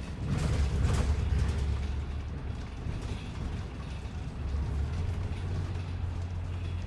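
Ride inside a bus: a steady low engine rumble with rattling and creaking of the bus's fittings, heaviest in the first second or so.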